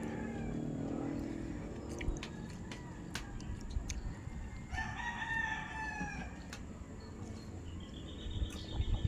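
A rooster crowing once, about five seconds in, a drawn-out call of about a second and a half. Scattered light clicks are heard throughout.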